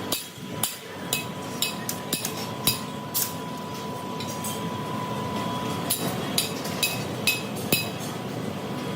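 Sharp metallic clinks and taps of steel striking steel, about a dozen irregular strikes with a pause in the middle. They sound over steady factory machine noise with a thin, steady whine.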